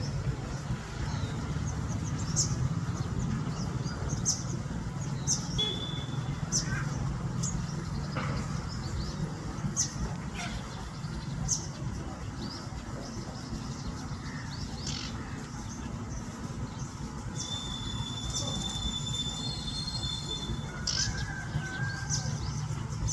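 Small birds chirping with short, sharp, high calls about once a second, over a steady low rumble. A thin, steady high whine sounds briefly about five seconds in and again for a few seconds near the end.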